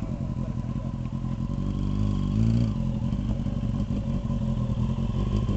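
Motorcycle engine running steadily, with one short rev about two seconds in.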